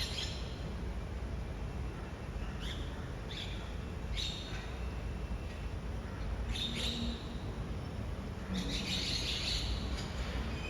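Steady low rumble of a BYD garbage truck at work, with a few short, high, downward-sliding chirps or squeaks a second or so apart, and a denser burst of high squeaking near the end.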